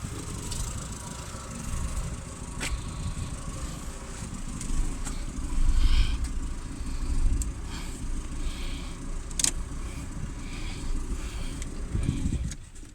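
Volkswagen Passat B2 engine running with a low, steady rumble and a few sharp clicks; the rumble drops away near the end.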